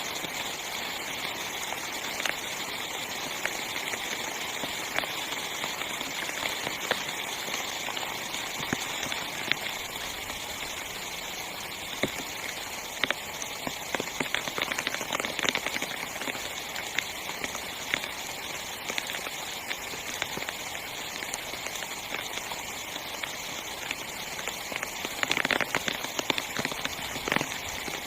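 Heavy rain falling on a small tent: a steady hiss with scattered sharp taps of single drops, and a run of louder taps near the end.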